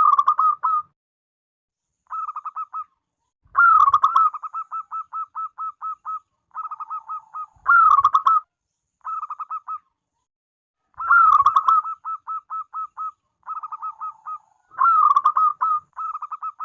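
A zebra dove singing its cooing song, again and again. Each phrase opens with a louder note, followed by a run of quick, softer repeated coos.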